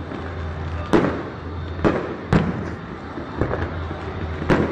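Fireworks going off: about five sharp bangs at irregular intervals, over a steady background of noise and low hum.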